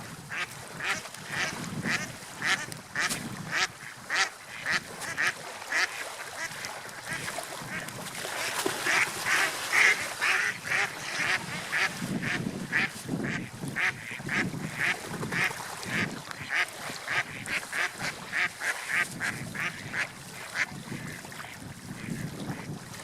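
Birds calling in a quick run of short repeated notes, about two to three a second, over a steady wash of water.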